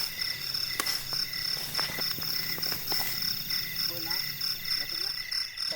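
Night chorus of insects, with steady, pulsing high trills of crickets, and a few short low croaks of frogs about four and five seconds in. A few sharp clicks in between.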